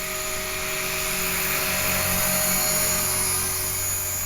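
HK-450 electric RC helicopter (a T-Rex 450 clone) in flight, its motor and gear whine and rotor hum steady, swelling slightly in the middle.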